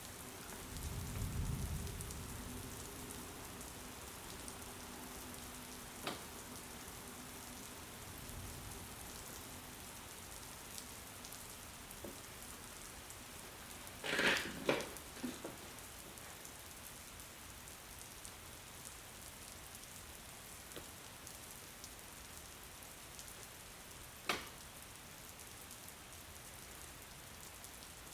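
Steady rain falling, an even hiss, with a low rumble about a second in and a few sharp clicks or knocks. The loudest of these is a quick cluster about halfway through.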